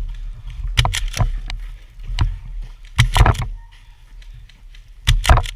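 Footsteps in snow, several quick steps in irregular clusters.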